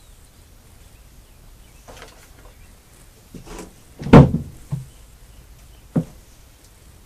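Engine parts being handled and set down on a workbench during a hit-miss engine rebuild: a scrape, then a few separate knocks and clunks, the loudest just after four seconds and a sharp one near the end.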